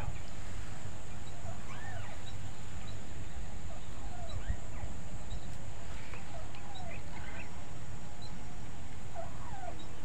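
Birds calling: short chirps that rise and fall in pitch, repeated every second or two, over a steady high hiss.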